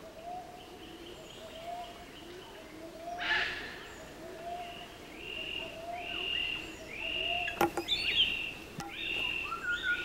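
Birds calling with short whistled notes repeated about once a second, some sliding in pitch. A single sharp knock sounds about seven and a half seconds in, followed by a few lighter clicks.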